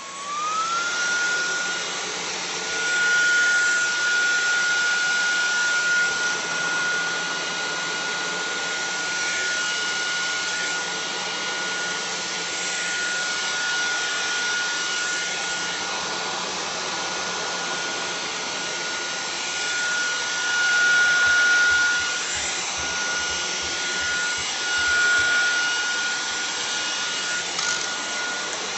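KCLASO cordless stick vacuum running: a steady rushing hiss of airflow with a motor whine that rises in pitch in the first second, then holds steady. It swells louder at times as the vacuum works.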